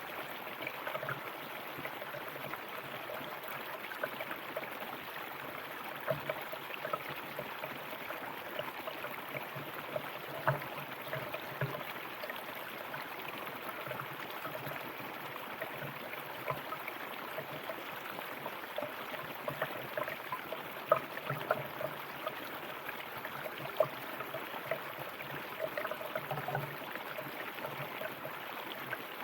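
River water flowing steadily over rocks, with a constant rush and many small irregular splashes and gurgles.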